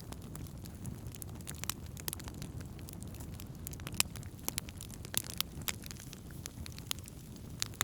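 Wood campfire burning: irregular sharp crackles and pops over a steady low rumble, with one louder pop about four seconds in.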